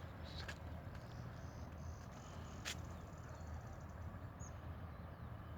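Outdoor ambience with a brief, fast, high-pitched trill and a couple of faint short chirps from small birds or insects over a steady low rumble. A single sharp click comes about halfway through.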